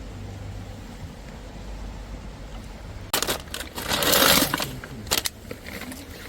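Low steady outdoor background, then about three seconds in a sudden burst of rustling, clattering handling noise with sharp clicks, loudest a second later.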